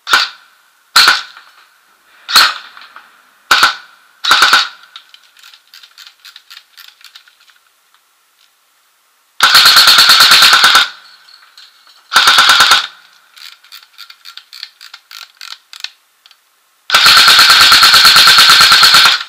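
Airsoft electric gun (AEG) firing, running on a 7.4 V LiPo battery: five single shots in the first few seconds, then three full-auto bursts, the last about two seconds long. Light clicks sound between the shots and bursts.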